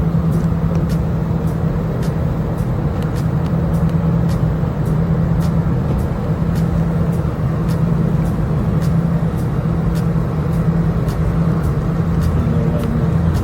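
Steady, loud engine and airflow drone inside a private jet cabin, with a constant low hum and faint ticking about twice a second.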